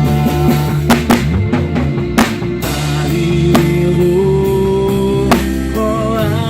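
A worship band playing an instrumental passage between sung lines: a drum kit with sharp hits over held chords.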